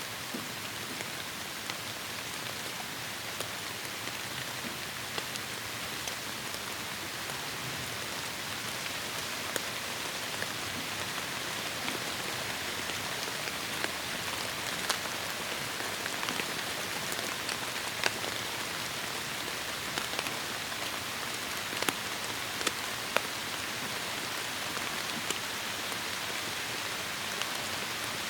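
Heavy rain falling steadily in a forest: an even hiss with scattered sharp, close drop impacts, which come more often in the second half.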